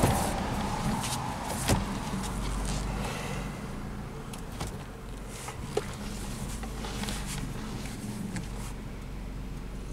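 A 2003 Toyota Highlander's four-cylinder engine running with road noise as it is driven slowly, heard from inside the cabin; the sound eases off over the first few seconds and stays steady after. A couple of light knocks stand out, the clearest about two seconds in.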